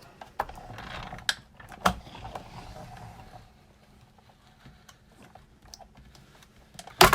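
Big Shot hand-cranked die-cutting machine running a plate-and-die sandwich through its rollers with a cardstock shim added so the die cuts through thick paper. It creaks and grinds with a few sharp clicks for about three and a half seconds. A loud knock comes near the end.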